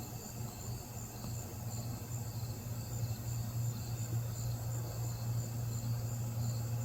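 Night insects chirping steadily in a fast pulsing rhythm, two high trilling tones together, over a steady low hum.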